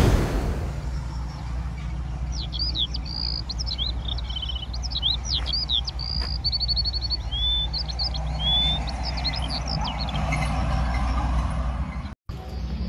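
A songbird singing a quick run of varied chirps, whistles and trills for several seconds, over a steady low rumble.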